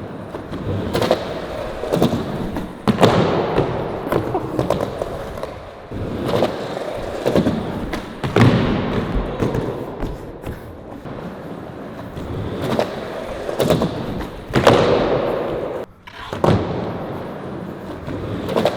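Skateboard wheels rolling on hard ground, broken by repeated sharp pops, clacks and landing thuds from attempts at a flip trick, with the board slapping and tumbling when the rider misses.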